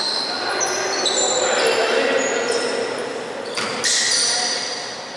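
Basketball being played on a gym court: repeated high squeaks of sneakers on the hardwood floor and a ball bouncing, in a large echoing hall.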